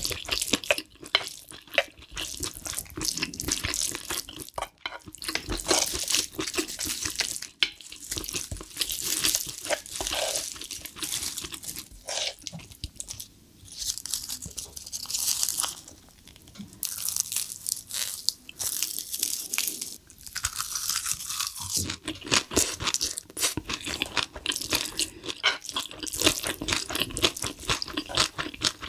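Close-miked eating: wet chewing and crunching of mouthfuls of spicy stir-fried cuttlefish with bean sprouts and noodles, as a continuous string of small crackles and squelches with brief pauses.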